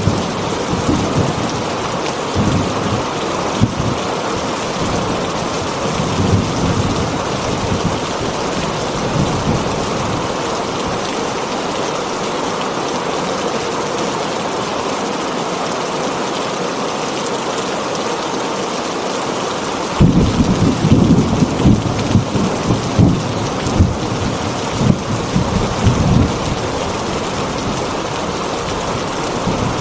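Steady heavy rain on a tin roof, with rolling thunder rumbling low in the first few seconds and again for several seconds about two-thirds of the way through.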